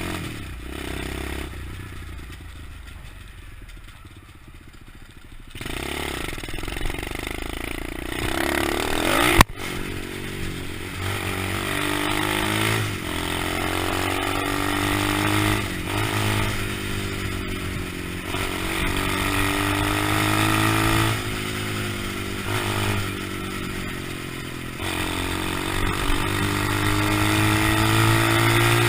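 125cc pit bike engine being ridden, its pitch rising under throttle and dropping back again several times. There is a sharp knock about nine seconds in.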